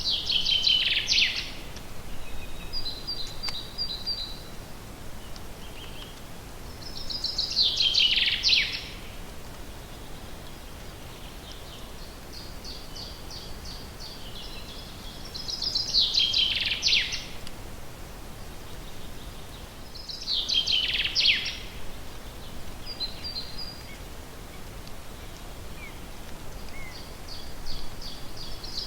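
A songbird singing the same short, loud phrase, a quick run of notes that falls in pitch, five times over, with softer high chirps between the phrases.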